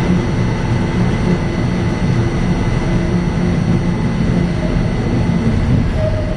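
Buffalo Metro Rail light-rail car running through its underground tunnel, heard from inside: a loud, steady rumble with a constant low hum and a faint high whine.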